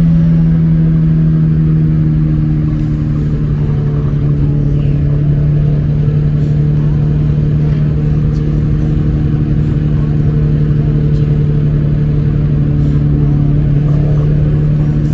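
Acura Integra four-cylinder engine running through a newly fitted HKS Hi-Power cat-back exhaust, a steady, even drone held at a constant engine speed throughout.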